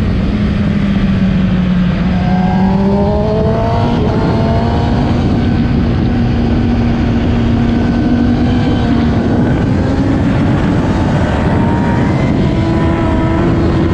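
Onboard sound of a 2008 Kawasaki ZX-10R's inline-four engine running at steady, moderate revs under a heavy rush of wind. The pitch drifts slowly up, then steps up higher near the end and keeps climbing.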